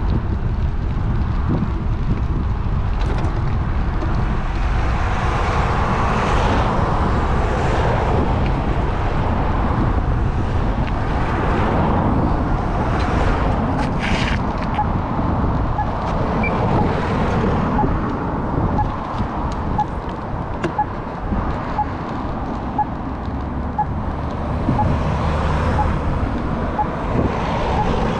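Wind rushing over a GoPro action camera's microphone on a moving electric bike, with road traffic passing alongside. A faint tick sounds about once a second in the second half.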